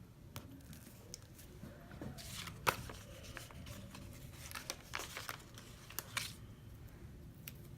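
Faint rustling and crinkling of planner sticker sheets being handled, a sticker peeled from its backing and pressed down, with a few small clicks and taps; the sharpest click about a third of the way in.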